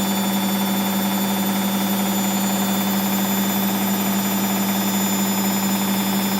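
Hoover DXA 48W3/1-80 washing machine spinning steadily, a constant hum over an even rush of drum and motor noise, running on a newly repaired drive belt.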